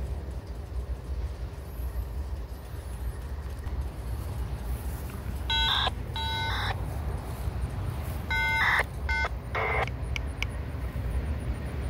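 Freight cars of a passing CSX mixed freight train rolling by with a steady low rumble. Two pairs of short, high beeping tones cut through it, about five seconds in and again around eight and a half seconds, followed by a brief rasp and a couple of clicks.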